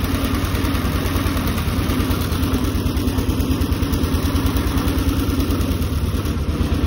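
Engine of a 1903 George Richards veteran car running steadily as the open car drives along, with a fast, even pulsing beat and a steady hum, over road and air noise.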